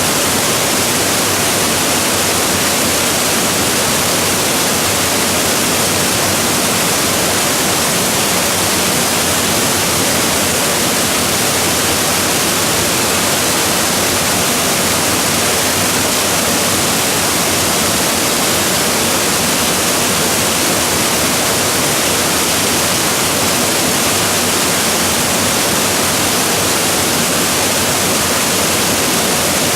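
Waterfall: a steady, loud rush of falling water, even throughout with no breaks.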